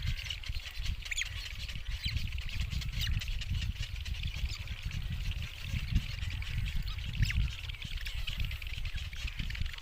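Outdoor ambience: a fluctuating low rumble of wind on the microphone under a steady high hiss, with a handful of short, high bird chirps scattered throughout.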